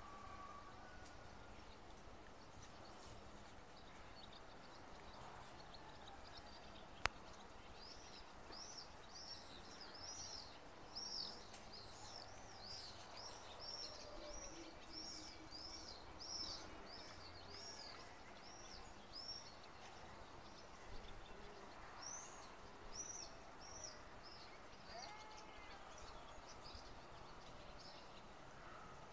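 Faint background hiss with a songbird repeating a long series of short high chirps, about two a second, pausing briefly and starting again. A single sharp click about seven seconds in.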